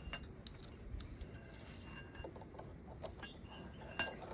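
Light, scattered metallic clinks and ticks of tools and small metal parts being handled on a motorcycle's brake, with one sharper click about four seconds in.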